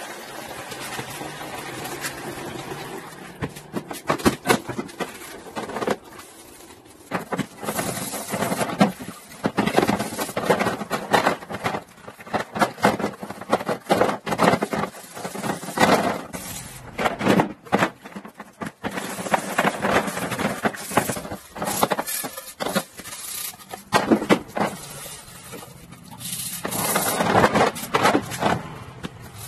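Scrubbing and scraping on a used refrigerator as it is cleaned: uneven rubbing strokes that come in spurts with short pauses between them.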